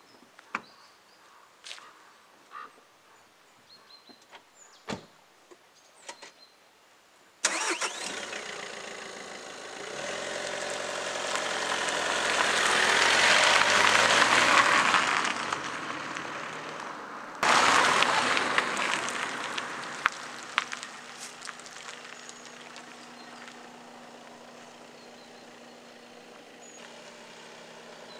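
A few faint clicks, then about seven seconds in a car engine cuts in suddenly, builds up loud and falls away. About seventeen seconds in it cuts in loud again and settles to a steady idle with a low even hum. The car is a Škoda Octavia with a 1.6 TDI diesel engine.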